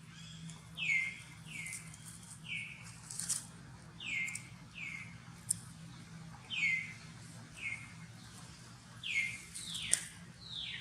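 A series of about ten short, high animal calls, each sliding down in pitch, several of them in quick pairs, with a few faint clicks between them.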